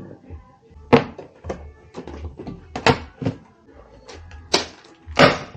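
A series of sharp knocks and thuds at irregular intervals, about six in a few seconds, the loudest two near the end.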